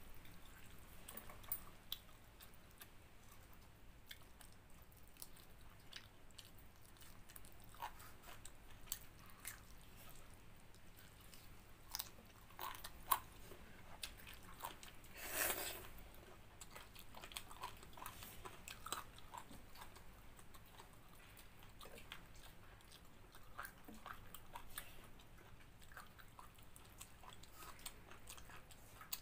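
A person eating chicken curry with pakhala (fermented water rice): faint chewing and biting, with scattered small clicks and crunches and one louder, longer burst about halfway through.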